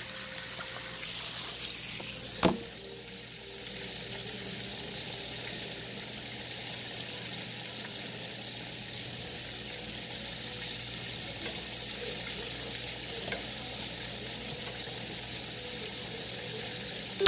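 Chicken wings deep-frying in bubbling oil in a cast-iron skillet, a steady sizzle, with a single knock about two and a half seconds in.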